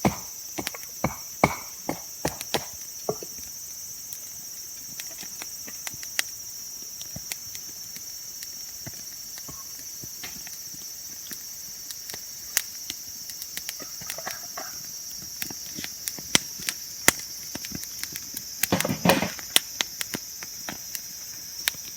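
Steady high-pitched chorus of night insects, with scattered sharp clicks and knocks over it and a short cluster of louder knocks about nineteen seconds in.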